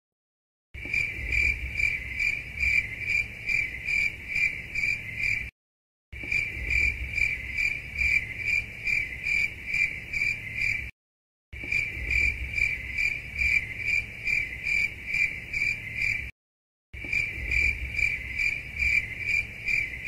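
Cricket chirping sound effect: a steady high chirp about three times a second. It plays as a loop of about five seconds that repeats four times, with a short silence between repeats, over a faint low rumble.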